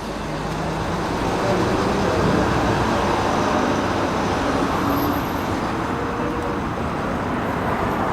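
Volvo F10 lorry's diesel engine running as it moves slowly past. The sound builds over the first couple of seconds, then holds steady.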